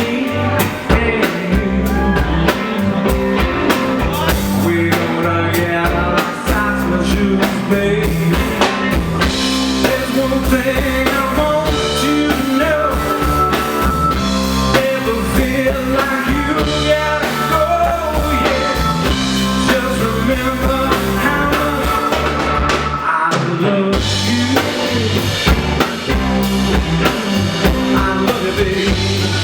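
Live rock band playing, with drum kit, bass and instruments in full swing. The band drops out briefly about three-quarters of the way through, then comes back in.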